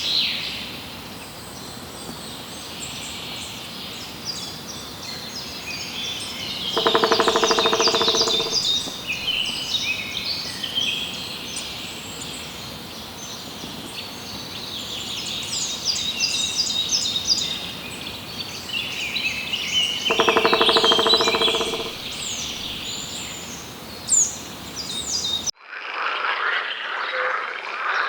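Many small birds chirping and singing together in a dense high chorus. Twice, about 13 seconds apart, a louder, lower buzzing call sounds for about a second and a half. Near the end the sound cuts off suddenly and is replaced by a different dense chorus.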